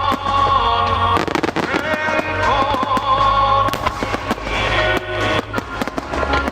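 Star mine fireworks barrage: many sharp bursts going off in quick, irregular succession over music played loudly through the venue's loudspeakers.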